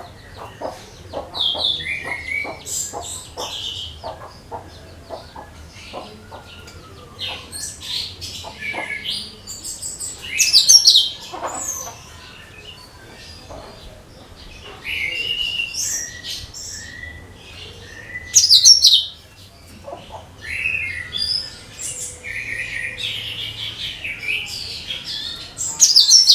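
Cucak kinoi singing a busy, varied run of chirps, whistled notes and rapid chattering, with its loudest phrases about eleven, eighteen and twenty-six seconds in. A faint steady hum lies underneath.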